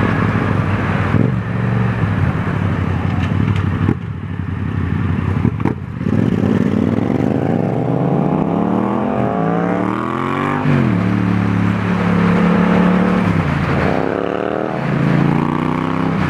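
Yamaha MT-07's parallel-twin engine accelerating through the gears: its pitch rises steadily, drops at a shift about ten seconds in, holds, then climbs again near the end. A rush of wind noise runs underneath.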